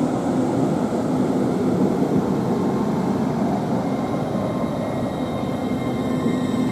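Hitachi Class 800 (LNER Azuma) train pulling away from the station: a steady low hum, with higher whining tones coming in over the last couple of seconds.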